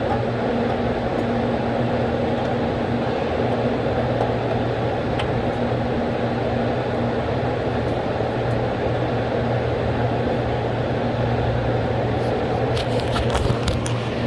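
A steady mechanical hum with an even whooshing noise, and a few light clicks and taps near the end.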